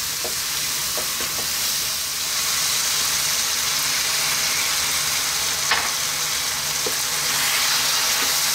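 Lamb, onion, garlic and berbere sizzling in a frying pan while being stirred with a wooden spoon, with a splash of water poured in to keep the spiced stew base frying without burning. The sizzle grows a little louder about two seconds in, and there is one sharp tap about six seconds in.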